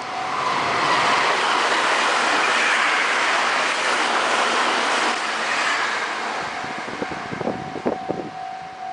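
Meitetsu electric train running past at speed: a loud rushing noise from wheels and body builds quickly, holds for several seconds and then fades. A few short wheel clunks follow on the rail joints near the end.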